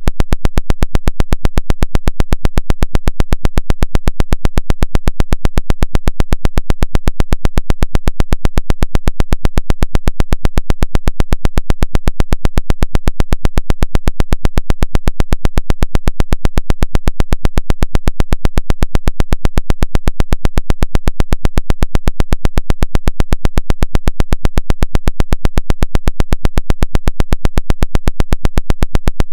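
Rapid pulsed 'woodpecker' signal: loud, even tapping pulses at about ten a second, keeping the same steady rate throughout. The uploader takes it for an electronic harassment jammer.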